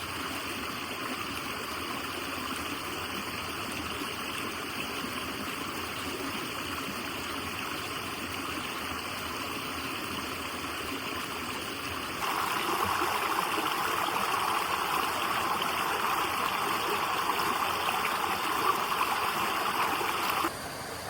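Steady rushing water, which becomes abruptly louder about twelve seconds in and drops back just before the end.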